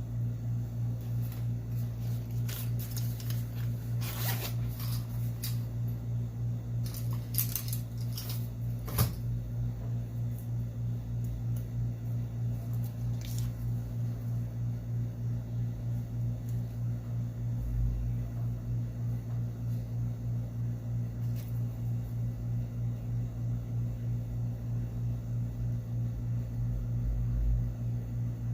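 A steady low hum, like a small fan or appliance, runs throughout. Over it come light scrapes and clicks from handling small parts in the first several seconds, a sharp click about nine seconds in, and a couple of soft low thumps later on.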